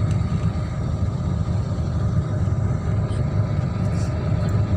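Steady low rumble of vehicle engines, with a few faint steady tones above it.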